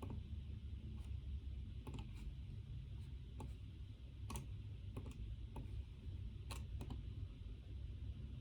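Scattered, irregular clicks of computer keyboard keys being pressed now and then, about ten in all, over a steady low room hum.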